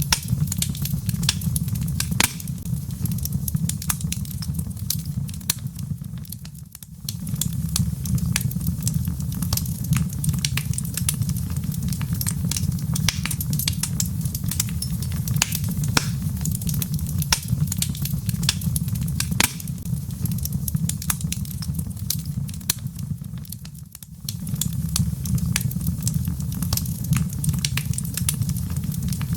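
Wood fire in a fireplace crackling, with frequent sharp pops and snaps over a steady low rumble. The sound dips briefly twice, about 7 seconds in and again near 24 seconds in.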